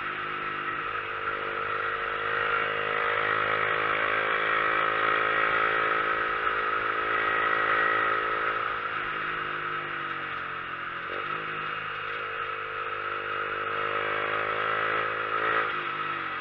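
A motorcycle engine running as the bike rides, its note climbing gradually and dropping briefly twice, about two-thirds of the way through and near the end, as it changes gear. A steady rushing noise runs under it throughout.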